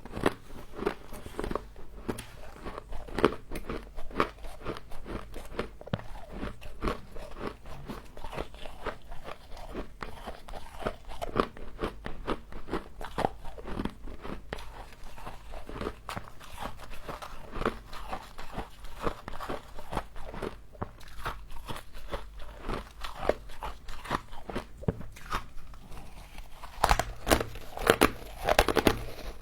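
Close-miked chewing of crunchy humidifier frost: a dense, continuous run of crisp crunches and crackles, louder for the last couple of seconds.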